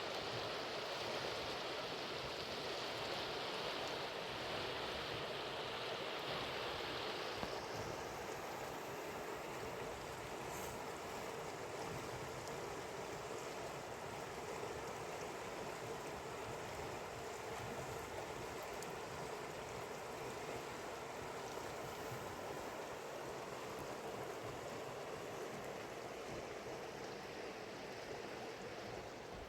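Mountain river water flowing: a steady rushing hiss, whose brighter upper part drops away about seven seconds in.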